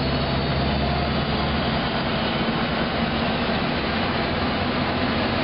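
MBTA commuter-rail train standing at the platform, its engine running with a steady low rumble and hiss.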